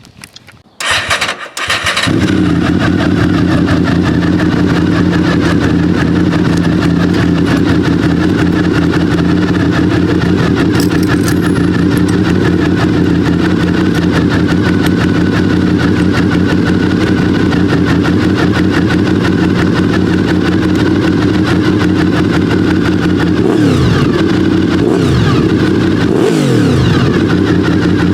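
Honda VFR800 RC46 V4 engine cranked on the starter, catching about two seconds in and settling into a steady idle through its exhaust, with a few quick throttle blips near the end.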